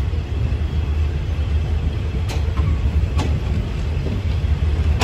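Passenger train rolling slowly through a station, heard from alongside its coach. A steady low rumble runs throughout, with two sharp clicks about a second apart near the middle.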